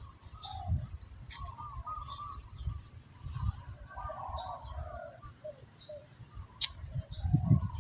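Birds chirping and calling throughout, with a couple of sharp clicks. Low thumping sounds grow louder near the end.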